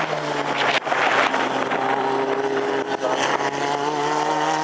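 Racing sports car engines at speed on the circuit, a steady engine note that sags slightly, then climbs gently, with a brief drop in sound a little under a second in, like a gear change. A second engine note rises near the end.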